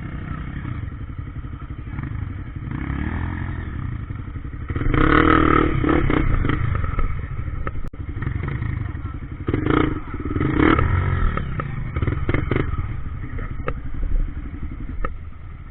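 Trail motorcycle engine running, with the throttle opened for louder bursts about five seconds in and again around ten seconds.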